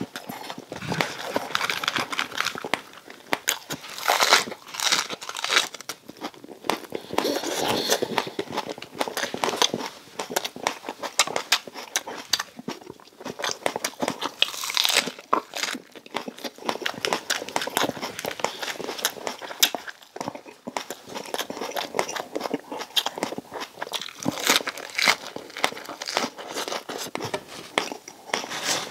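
A person biting and chewing super-crispy deep-fried pork belly with fresh lettuce, close to the microphone: a continuous, irregular run of crunches and crackles.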